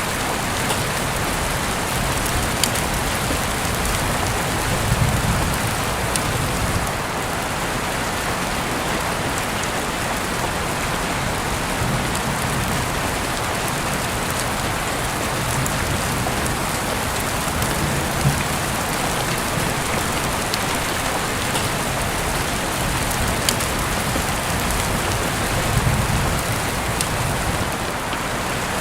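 Heavy rain falling steadily, heard through an open window, with individual drops striking close by and a few brief low swells in the downpour.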